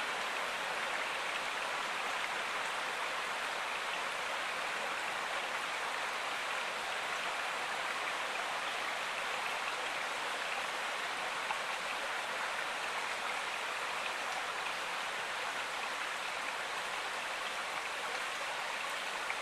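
Flowing river water: a steady, even rush of running water.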